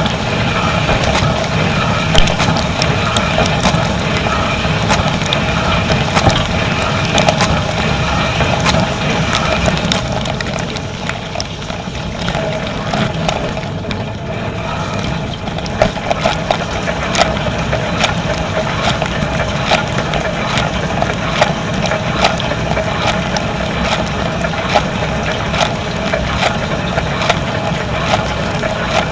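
Dishwasher running its wash cycle, heard from inside the tub: a steady pump hum and rushing water spray, with constant irregular clicks and knocks of water and dishes rattling. It eases off a little partway through, then picks up again.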